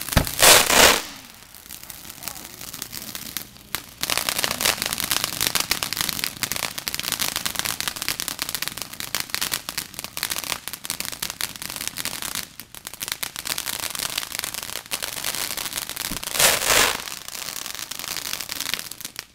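Consumer fireworks going off: a long, dense run of rapid crackling pops, with a louder bang right at the start and another near the end.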